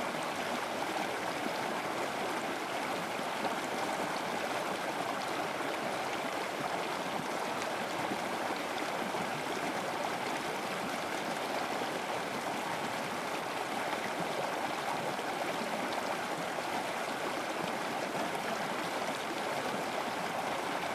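River water flowing over rocks: a steady, even rush with a gurgle.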